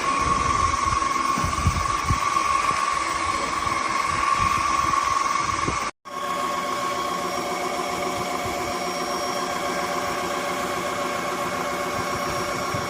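Cordless wet-and-dry vacuum mop running, with a steady motor whine and low uneven knocks in the first half. It breaks off for an instant about six seconds in, then runs on more evenly with several steady tones.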